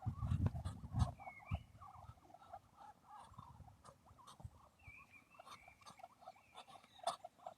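Farm animals calling: a cluster of low grunts in the first second and a half, then many short, soft calls, with a few small chirps above them.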